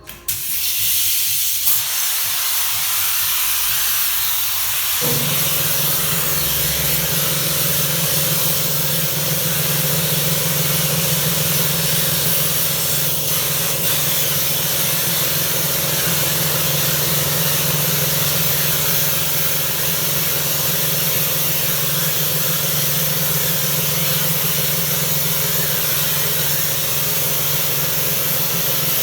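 Pressure washer spraying a steady hiss of water. About five seconds in, the pump motor's steady hum joins it.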